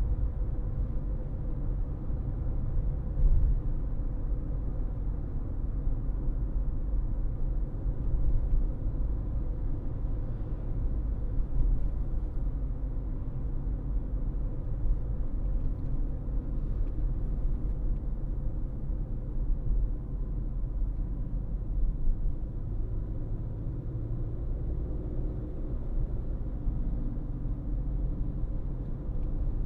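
Car driving along: steady low road and engine rumble with no big changes.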